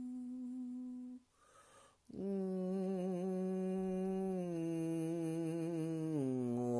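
A man's voice humming long held notes in sound-healing toning: one note breaks off about a second in, a breath is taken, then a lower note is held and steps down twice.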